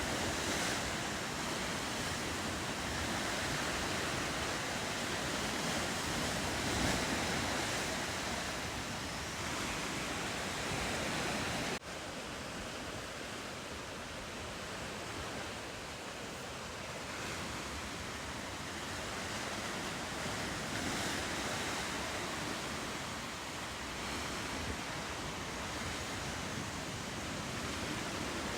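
Ocean surf and wind: a steady rushing wash with no distinct events. There is a brief break about twelve seconds in, after which it is slightly quieter.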